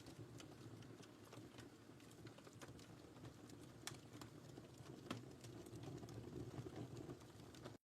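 Wood fire in a fireplace crackling: scattered sharp pops and snaps over a soft low rumble of burning. The sound cuts out to silence for a moment near the end.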